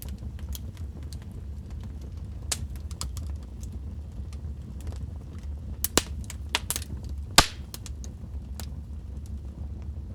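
Wood fire crackling in a fireplace: scattered sharp pops and snaps over a steady low rumble, the loudest pops coming about six and seven and a half seconds in.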